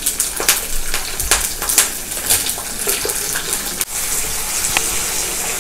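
Brinjal pieces frying in hot oil with tempering spices in an iron kadai, sizzling with many small crackles. About four seconds in, the crackling gives way to a steadier hiss as tamarind water is squeezed into the hot pan.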